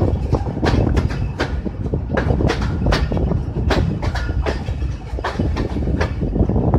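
Pakistan Railways Hazara Express passenger coaches running along the track, heard from an open coach window: the wheels clack sharply over rail joints in an uneven rhythm of about two to three clacks a second over a steady low rumble.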